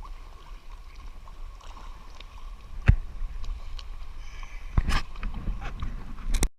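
Sounds aboard a boat: a steady low rumble with a faint wash of water, broken by a sharp knock about three seconds in and a cluster of knocks around five seconds, then cutting off abruptly near the end.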